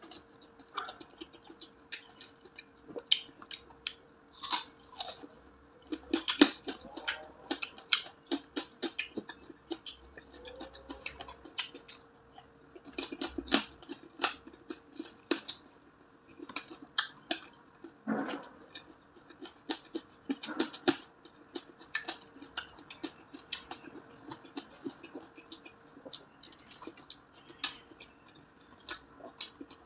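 Close-up mouth sounds of someone eating lechon kawali, crispy deep-fried pork belly: irregular chewing and lip smacking with short sharp crunches, several a second.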